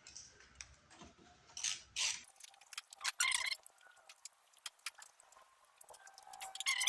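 Irregular metallic clicks and clinks of hand tools and small bolts being handled while an 8mm-bolted cover is taken off a mini bike's small engine, with louder clusters of clinks about three seconds in and near the end.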